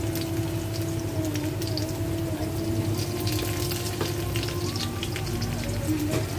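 Sliced shallots and garlic crackling and sizzling as they fry in hot oil in a wok, with a steady crackle of many small pops throughout. Underneath runs a steady hum that changes pitch a few times.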